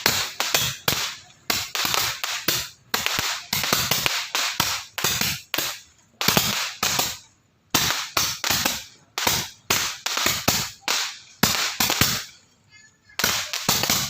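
Firecrackers banging in quick, irregular succession, several sharp cracks a second, each with a short echoing tail. There is a brief lull about twelve seconds in.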